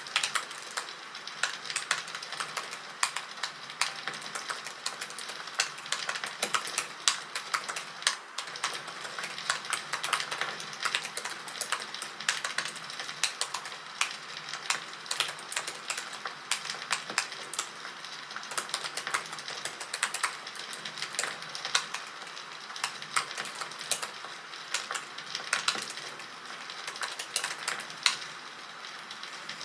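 Campfire crackling: a steady hiss of burning wood with frequent irregular pops and snaps.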